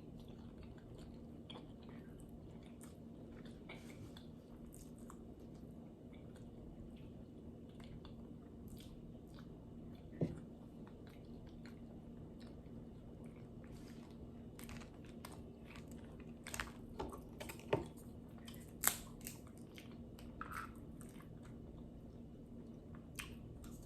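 Close-up eating sounds from a seafood boil: wet chewing and mouth clicks over a low steady hum, with a few louder clicks about ten seconds in and again a few seconds later.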